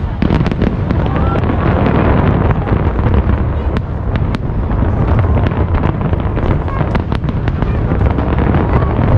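Aerial fireworks display bursting continuously: a dense run of sharp cracks and bangs over a steady low rumble.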